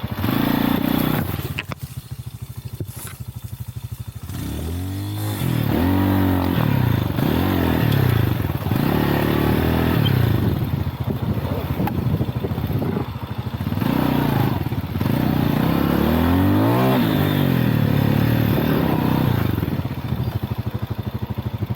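Lifan Xpect dual-sport motorcycle engine running just after starting, first near steady, then revving up and dropping back again and again as the bike pulls away and shifts through the gears.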